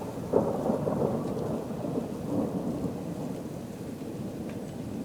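Rolling thunder from thundersnow following a lightning flash: a low rumble that jumps sharply about half a second in, then slowly fades.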